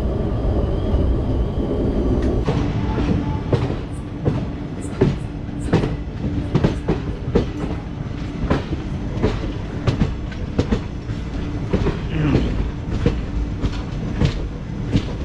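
Passenger train coach running at speed, heard from aboard: a steady low rumble of wheels on rails. From about two seconds in, the wheels clack irregularly over rail joints.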